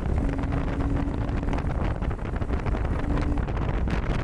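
Wind rushing over the microphone while riding a Honda Grom, with the bike's small single-cylinder engine holding a steady low note underneath that drops out briefly a few times.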